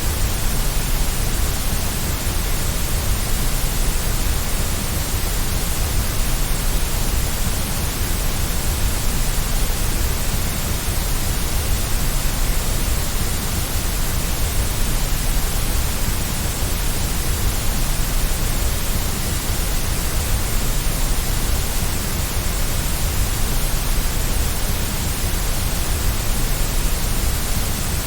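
Steady white noise, an even unbroken hiss that does not change.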